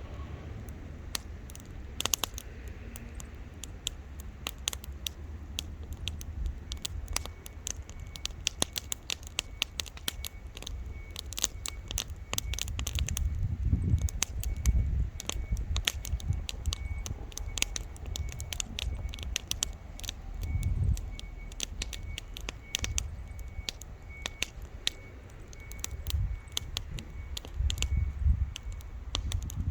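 Wood campfire crackling, with frequent sharp pops and snaps over a low rumble that swells and fades.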